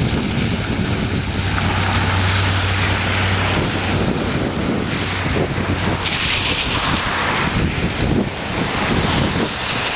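Strong storm wind buffeting the microphone: a loud, steady rushing. A low hum runs underneath and fades out about six seconds in.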